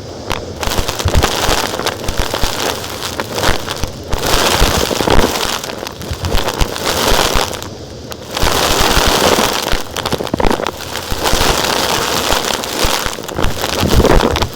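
Vacuum cleaner sucking up small rocks and grit, with stones rattling and clattering through the nozzle and hose in a dense crackle. It eases off briefly about halfway through, then resumes.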